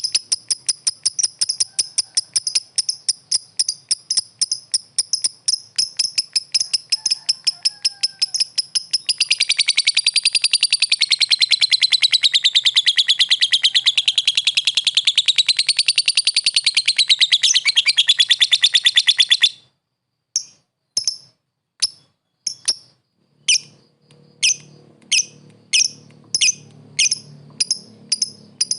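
Lovebird giving a long, fast chattering call (the 'ngekek'), an even run of high chirps with a warbling lower strand joining about a third of the way in. It breaks off abruptly about two-thirds through, followed by separate single chirps about twice a second.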